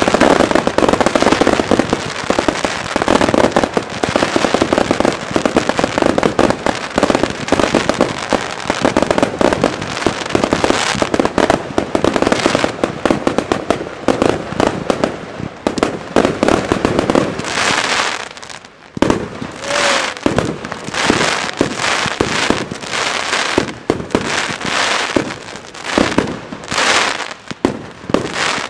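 Mascletà firecrackers and fireworks going off in a dense, continuous barrage of rapid bangs and crackling. After a brief lull about two-thirds of the way through, separate heavier bangs follow, with crackle between them.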